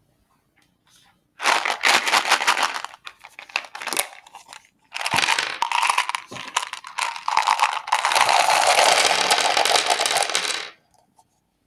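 Candy wrappers crinkling and tearing as sweets are unwrapped by hand, in two stretches: a short burst of crackling about a second and a half in, then a longer one that runs until shortly before the end.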